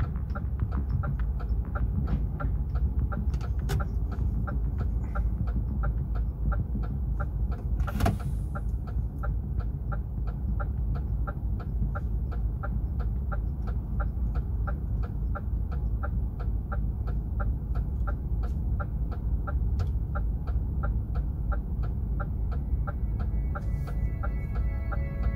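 Inside a DAF XF truck cab, its diesel engine runs with a steady low rumble, under an even clicking about three times a second. Music begins near the end.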